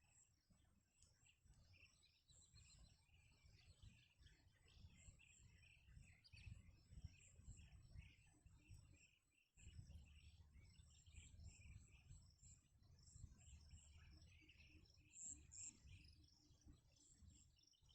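Near silence: faint, many short high chirps over a low rumble, which drops away for a moment about halfway through.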